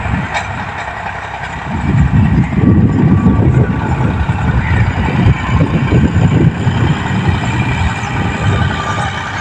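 Tractor engine running, its low rumble growing louder about two seconds in and easing off again near the end.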